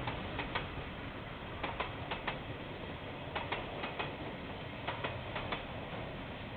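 Freight train wagons rolling past, their wheels clicking over the rail joints in quick pairs about once a second over a steady rumble, heard thinly through a security camera's microphone.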